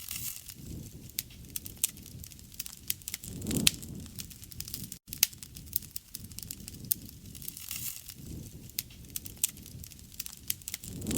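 Wood fire crackling, with many sharp irregular pops and snaps over a low rushing of flame that swells briefly about three and a half seconds in and again near the end.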